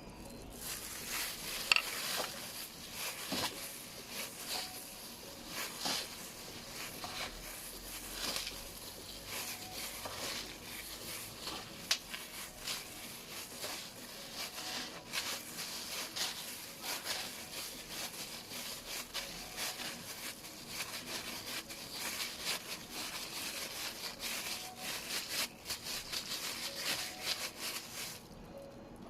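Chicken nuggets frying in hot oil: a steady sizzle with many scattered crackles and clicks, stopping about a second before the end.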